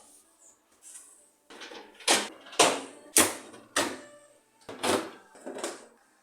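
A series of about seven short swishing strokes, roughly two a second, starting after a quieter first second and a half: cleaning strokes on a refrigerator during a scrub-down.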